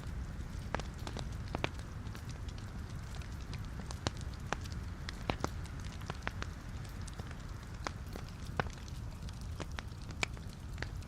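Wood fire of burning logs in a fireplace: a steady low rumble of flames with irregular sharp crackles and pops, a few each second.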